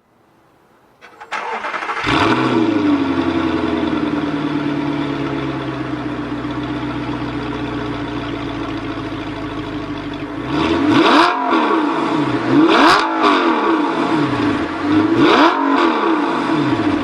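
Audi R8's 4.2-litre V8 through a Meisterschaft aftermarket exhaust being started: a click, then the engine catches about two seconds in with a flare and settles to a steady idle. Near the end it is blipped three times, each rev rising and falling back to idle.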